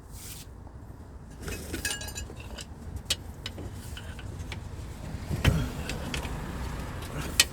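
Metal clinks and jingling from tools and parts being handled while a car's steering rack is fitted, with a loud knock about halfway through and a sharp click near the end, over a steady low rumble.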